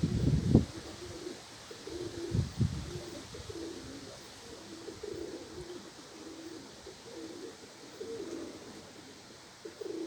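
Domestic pigeons cooing in repeated soft phrases. Low rumbling buffets of strong wind hit the microphone near the start and again about two and a half seconds in.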